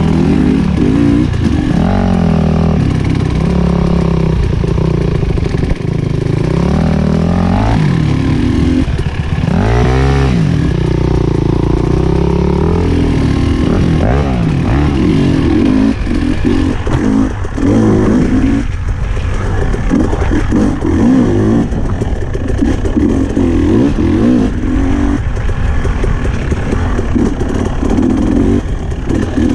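Husqvarna TE300i's two-stroke single-cylinder engine being ridden hard around a tight track, revving up and down over and over as the rider accelerates out of turns and backs off into them.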